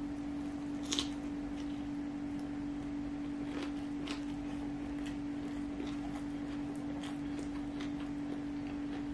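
Close-up eating sounds of fried rice being eaten by hand: chewing, with wet lip smacks and finger-licking clicks scattered through, the sharpest about a second in. A steady low hum runs underneath.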